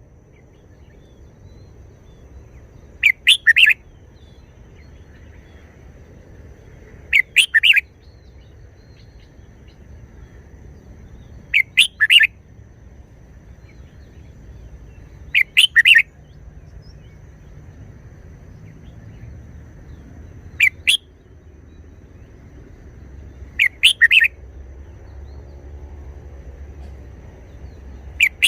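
Red-whiskered bulbul singing short song phrases, each under a second long, repeated about every four seconds.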